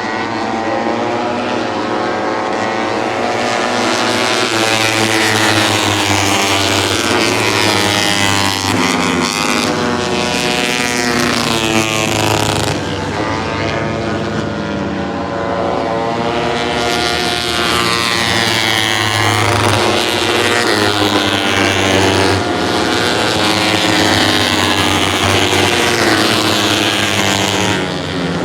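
Several Moto3 race bikes' 250 cc single-cylinder four-stroke engines running at high revs, their pitch rising and falling over and over as they go through the gears and pass.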